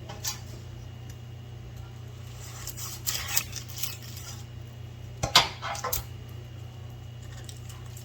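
Light clinking and crisp rustling in three short bursts as fried spring rolls are set upright in a dish, over a steady low hum.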